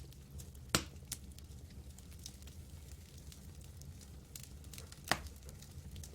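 Campfire crackling, with scattered small snaps and two sharper pops, one just under a second in and one near the end, over a steady low rumble.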